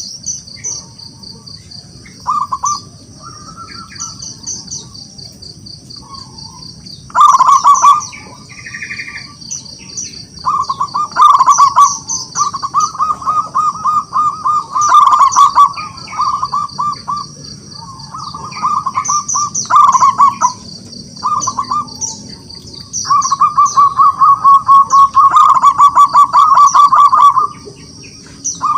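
Zebra dove (perkutut) cooing: repeated loud bursts of rapid, rolling coos, each lasting one to four seconds, with short pauses between. A steady high-pitched chirping runs behind it.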